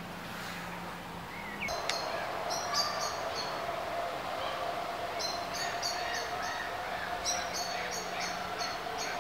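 A songbird singing, repeating a phrase of short high notes three times, starting about two seconds in. A steady faint hum runs beneath it.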